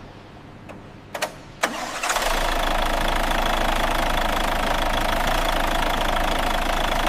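Two sharp clicks, then about two seconds in a truck's diesel engine starts and runs steadily with a fast, even low pulse.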